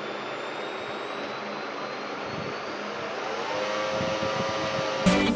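Small 555 DC motor of a homemade fan running with a steady whir and a thin high whine; its hum rises in pitch and grows louder after about three seconds. Music starts near the end.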